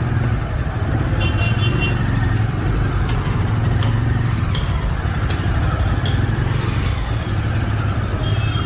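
Motorcycle engine running steadily while riding, under wind and road noise. A short high-pitched beep sounds about a second in and again near the end.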